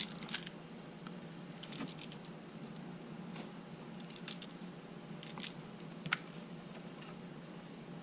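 Scattered small, sharp clicks from handling a Sony A7R2 camera body: fitting the lens and working its controls, about six clicks spread over several seconds, over a faint steady hum.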